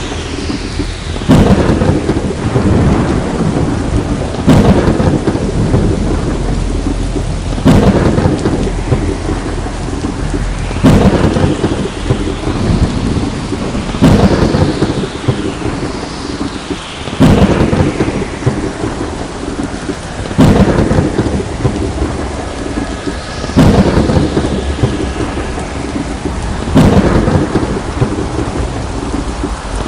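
Thunderstorm: steady heavy rain with sudden thunderclaps that break out at even intervals, about every three seconds, each dying away into the rain.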